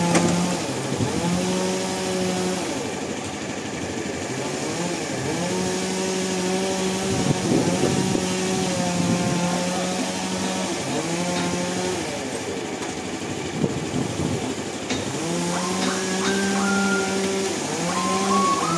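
An engine revving up and down over and over, its pitch swelling and dropping every few seconds as it works under changing load. A beeping tone, like a reversing alarm, starts near the end.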